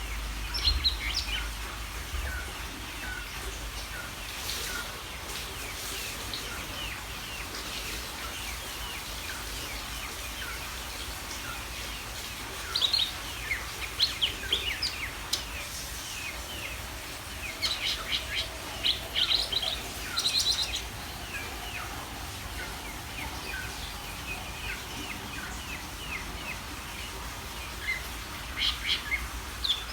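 Cucak ijo (green leafbird) singing: a steady run of quick chirps and whistles, breaking into louder, faster bursts of song about midway and again near the end.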